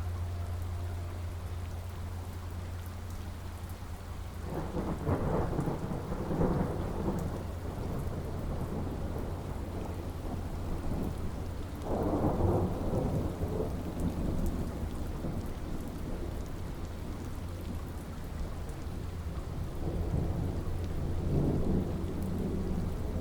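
Steady rain falling, with rolls of thunder rumbling up three times: a long roll a few seconds in, a shorter, loud one about halfway, and a softer one near the end.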